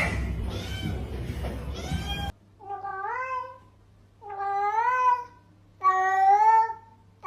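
Domestic cat meowing: a few meows over background noise, then after an abrupt cut three separate drawn-out meows, each rising and then falling in pitch.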